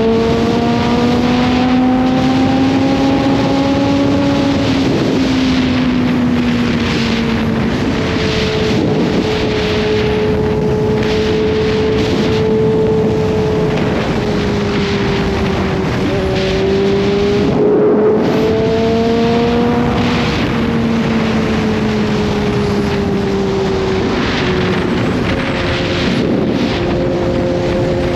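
Kawasaki Z H2's supercharged inline-four engine running at an easy cruise, its pitch rising and falling gently with the throttle, with a steady rush of wind. About two-thirds of the way through there is a brief dip before the engine note climbs again.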